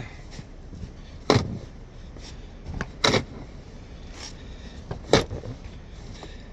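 Snow shovel strokes: three sharp scrapes of the blade against the ground, about two seconds apart, over a steady low rumble.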